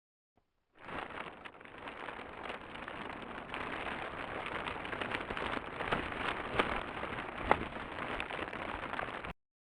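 Plastic being handled, recorded with an ultrasonic-capable microphone and played back three octaves lower: a dense, rain-like crackle full of sharp clicks. It starts about a second in, has a couple of louder snaps near the end, and cuts off suddenly.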